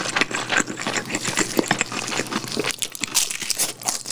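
Close-miked chewing of a mouthful of fried rice and sauced fried chicken: a dense run of wet mouth clicks and crackles.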